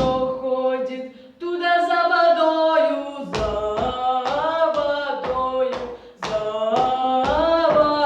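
A girl singing a Russian folk song, drawing out bending, held notes.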